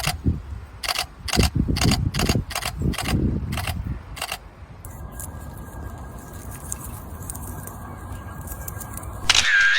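Camera shutter clicking about a dozen times at an uneven pace over the first four seconds, then a quieter stretch of steady hiss, with a louder burst near the end.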